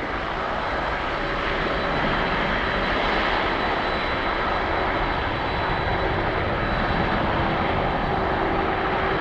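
Jet engines of a Boeing 747-400 airliner: a loud, steady rush of jet noise with a thin high whine over it, swelling a little in the first couple of seconds and then holding.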